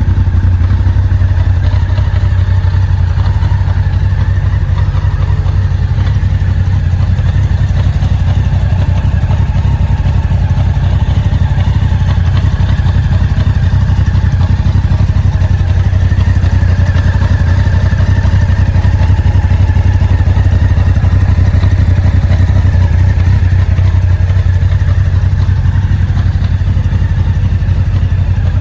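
Honda CBR1100XX Super Blackbird's inline-four engine running steadily, at an even, unchanging speed.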